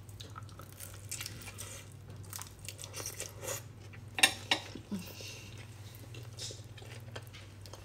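Person biting into and chewing a roasted chicken drumstick, with soft wet mouth and lip sounds and a couple of louder sharp clicks about four seconds in, over a low steady hum.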